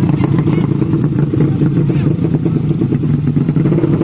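Motorcycle engines running steadily, a rough, dense low drone with no clear revving rise or fall.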